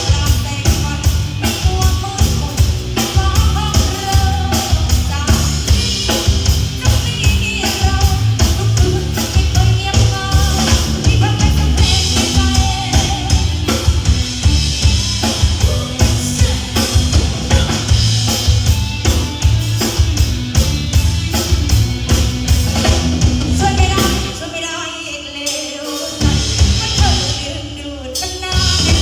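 A band playing a rock-style song with a steady drum-kit beat and bass, with singing at times. The drums and bass drop out briefly twice near the end.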